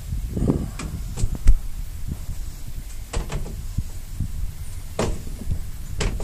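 A string of knocks and clicks, like a door or sliding window being worked, with the loudest knock about a second and a half in, over a steady low rumble.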